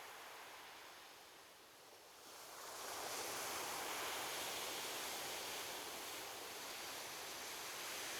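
Ocean waves washing onto a beach: the surf eases off, then a wave breaks and swells up about two and a half seconds in, and the wash holds steady after it.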